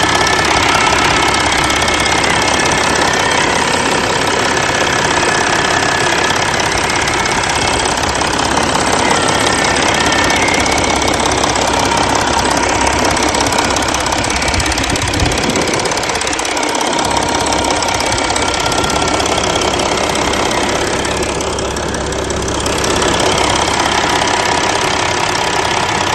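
Audi 3.0 TDI V6 turbodiesel idling with a strange hissing, whistling noise: the sign of a torn membrane in the PCV (crankcase ventilation) valve, while the engine otherwise runs fine.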